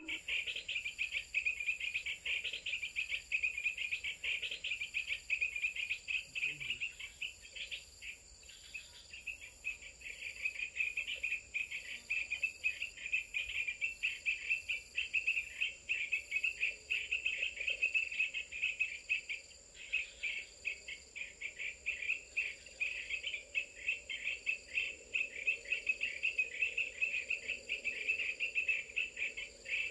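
Dense insect chorus: rapid, continuous chirring over a steady high-pitched whine and a faint pulsing higher tone. The chirring dips briefly about 9 s and 20 s in.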